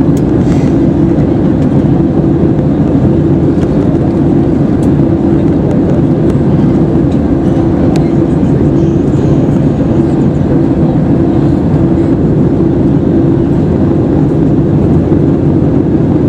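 Steady, loud cabin noise of an Airbus A320-214 in flight: the low rush of air along the fuselage and the engines' drone, with a steady hum underneath and a few faint clicks.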